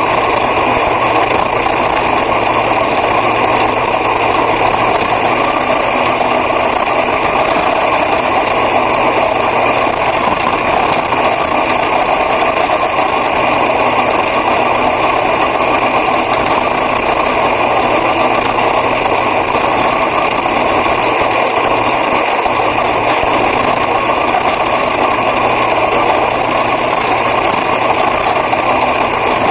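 A racing car's engine running steadily, with no rise or fall in revs.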